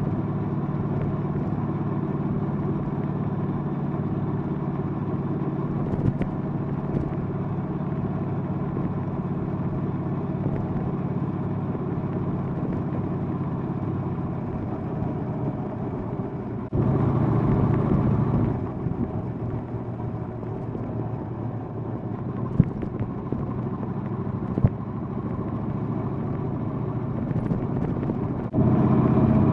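Triumph Bonneville Bobber's parallel-twin engine running under way on the road. The engine note gets suddenly louder twice, for a couple of seconds about halfway through and again near the end.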